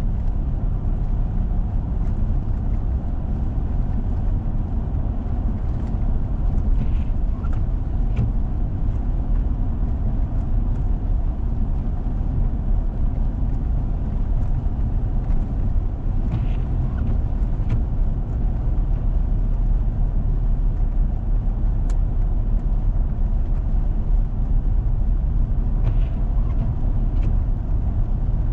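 A four-wheel-drive vehicle driving on a snow-covered road: a steady low rumble of engine and tyres, with a few faint ticks scattered through.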